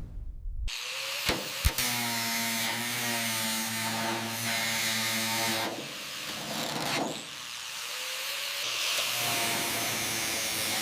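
A power tool running steadily with a motor hum and a hiss, starting after two sharp clicks and briefly dropping out a little past the middle before running again.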